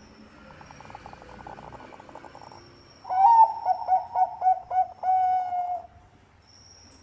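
Zebra dove of the Bangkok perkutut type cooing. First comes a soft, rapid rattling coo. About three seconds in, a loud phrase follows: a quick rising note, a run of short dipping coos and a longer held final coo.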